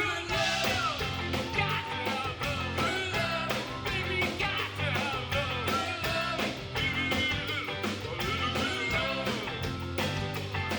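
Live rock band playing a song: a steady drum beat and bass under guitar, with a bending lead melody line over the top.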